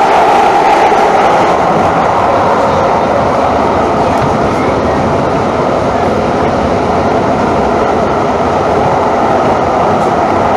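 Calgary CTrain light-rail train running steadily, an even rumble of wheels and motors with a strong mid-pitched hum.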